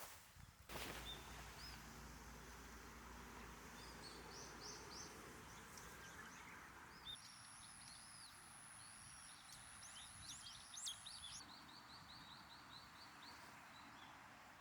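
Faint wild birdsong outdoors: scattered short chirps and quick runs of repeated notes from several birds, with a thin, very high steady note held for about four seconds midway. A single click comes just after the start, over a faint steady background hiss.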